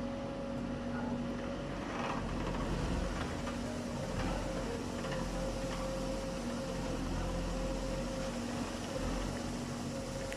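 Engine of heavy machinery running steadily with a low hum, with a few faint knocks about two to five seconds in.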